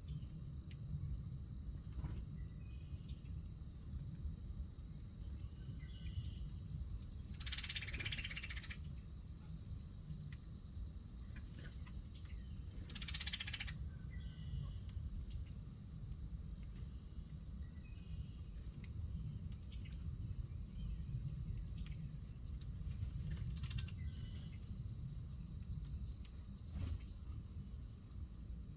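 Backyard nature ambience: a steady high-pitched insect drone over a low outdoor rumble, with faint scattered bird chirps. Two short rushing bursts stand out, about eight and thirteen seconds in.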